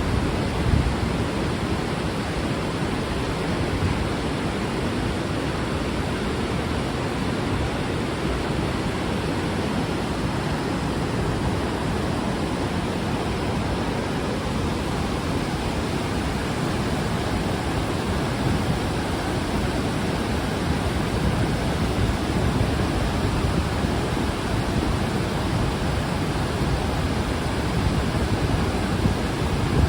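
Steady rush of water from a fast-flowing river and waterfall, an even roar with no breaks.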